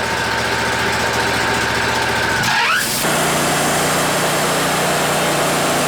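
Wood-Mizer LT40 band sawmill running steadily; about two and a half seconds in, the engine revs up with a rising whine and the sound settles into a fuller, noisier steady run as the mill is brought up to sawing speed.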